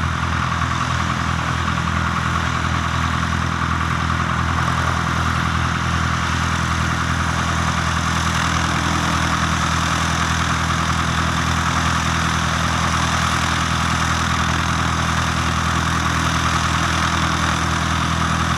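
Cessna 152's four-cylinder Lycoming engine and propeller running steadily at idle, with no change in pitch.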